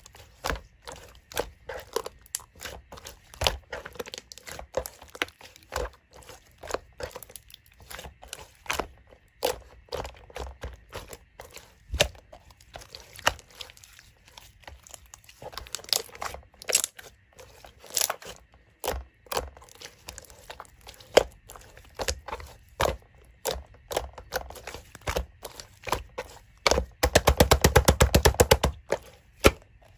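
Toy slime being pressed, poked and stretched by hand, giving a stream of sharp crackling pops and clicks. Near the end comes a fast, dense run of pops.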